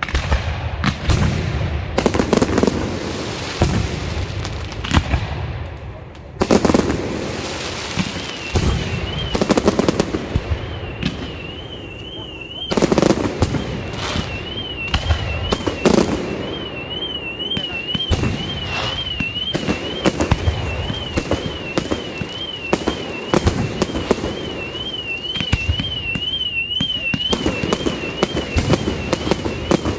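Fireworks going off: a continuous string of sharp bangs and crackles, with louder clusters of booms every few seconds. From about eight seconds in, a high warbling alarm-like tone runs underneath.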